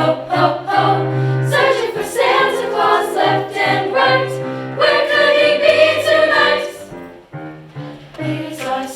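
Choir singing with instrumental accompaniment, a bass line holding steady notes beneath the voices; the sound thins out briefly in the later part before the singing picks up again.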